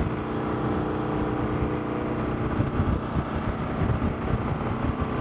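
Motorcycle engine running at a steady cruising speed, with low wind rumble on the microphone.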